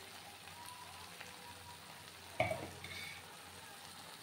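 Spice paste frying gently in oil in a kadai, a low steady sizzle under a dollop of freshly added yogurt. About two and a half seconds in there is a short knock, followed by a smaller one.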